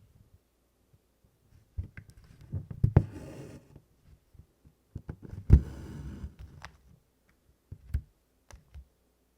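Needlework on stiff 24-count Congress cloth: the needle clicks and taps as it punches through the canvas, and twice, about three seconds in and again around the middle, DMC floss is drawn through the fabric with a longer swishing hiss.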